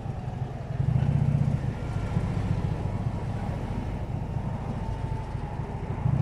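Harley-Davidson Electra Glide's V-twin engine running at low revs in slow traffic, a steady low pulsing rumble that picks up slightly about a second in.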